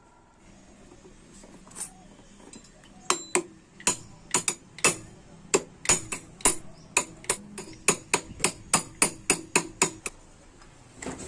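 Hammer striking metal in a quick series of about twenty blows, two to three a second, each with a brief high ring. The blows start about three seconds in and stop near the end.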